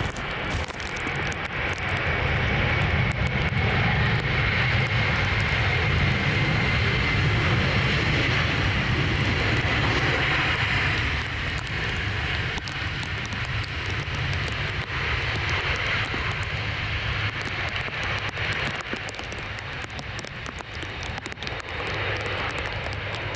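Jet airliner's engines as it flies past, a steady rumble with a high whine that falls slightly in pitch, loudest in the first half and easing off later.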